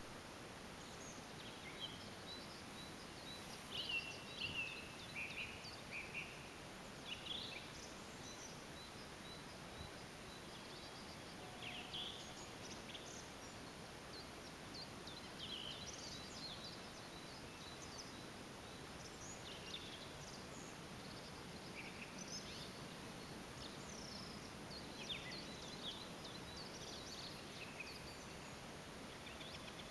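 Songbirds singing, many short high chirps and trills at irregular intervals, over a steady background hiss.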